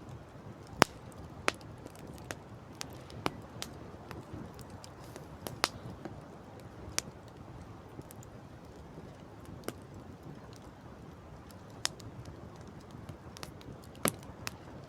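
Campfire crackling, with irregular sharp pops of burning wood, the loudest about a second in and near the end, over a steady low rushing background.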